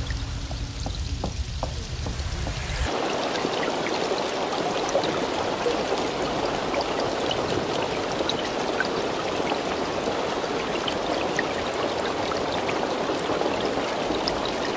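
Rainy city ambience with a low traffic rumble, switching about three seconds in to steady rain falling, a dense even hiss dotted with many small drop ticks, as of rain on window glass.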